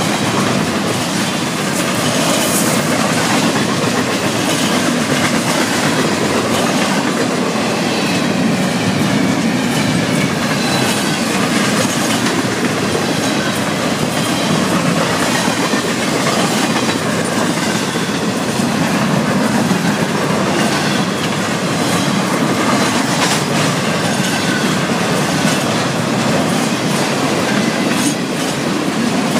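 Florida East Coast Railway freight train's double-stack container cars and autorack cars rolling past at close range: a steady rumble of steel wheels on rail, with clickety-clack as the wheels pass over rail joints.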